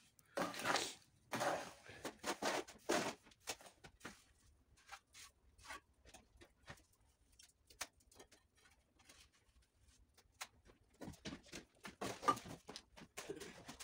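Scattered light taps, knocks and short scrapes of bricklaying, as bricks are set and a trowel works mortar on a chimney, busiest at the start and again near the end.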